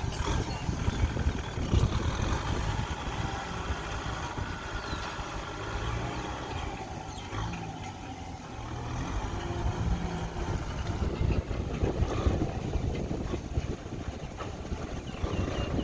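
Kubota tractor's diesel engine running steadily while plowing a rice paddy. It eases off briefly about halfway through, then picks up again.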